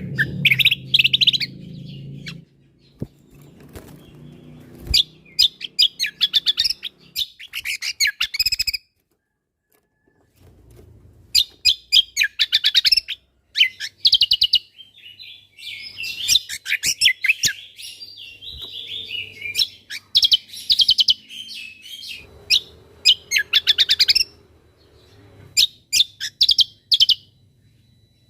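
Greater green leafbird (cucak kombo) singing its rapid-fire song: quick, sharp chirps and trills in clusters of a second or two, separated by short pauses, with a nearly silent break about a third of the way in.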